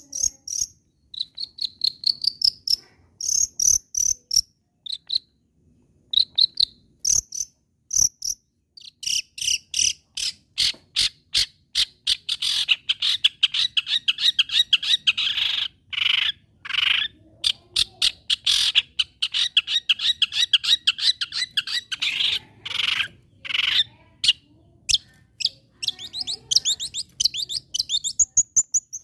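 Long-tailed shrike (cendet) singing in full voice. It opens with spaced clicks and short high whistles, then from about nine seconds a long, dense run of rapid harsh chattering that thins out again near the end.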